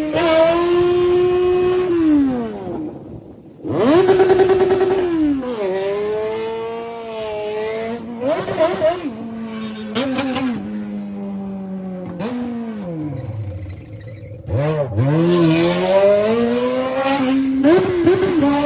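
Yamaha XJ6's 600 cc inline-four engine revving, its pitch climbing and dropping again several times, with a short lull about three seconds in.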